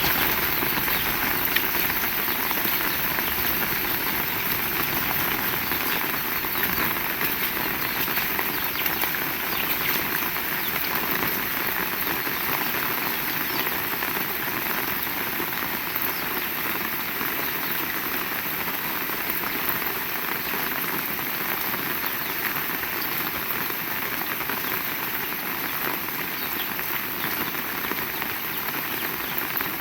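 Heavy rain falling steadily, a dense hiss of countless drop impacts.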